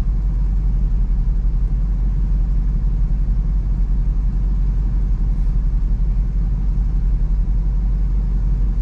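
SRT SUV's V8 engine idling steadily, a continuous low rumble heard from inside the cabin.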